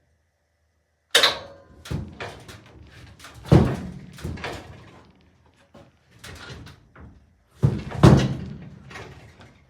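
A string of knocks and thuds from a large MDF slab being shoved and bumped into place on shelf framing. They start about a second in, with the loudest ones then, again about three and a half seconds in, and around eight seconds in.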